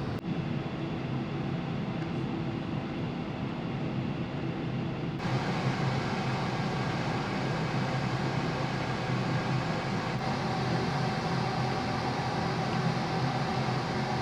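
Steady mechanical hum and rush of the car ferry Hamayuu under way: its engines and ventilation. About five seconds in, the sound shifts abruptly to a louder, brighter hum with a steady whine.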